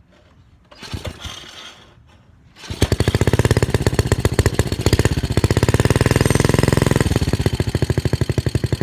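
Single-cylinder Briggs & Stratton engine on a motorized bicycle being pull-started cold with the choke on: a short rough pull about a second in, then nearly three seconds in it catches and runs loud and fast as a rapid, even train of firing pulses.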